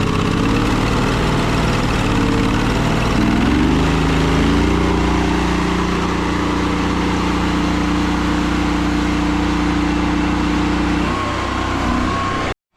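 Gas engine of a pressure washer running loud and steady, its pitch wavering over the first few seconds before settling to an even speed. The sound cuts off abruptly near the end.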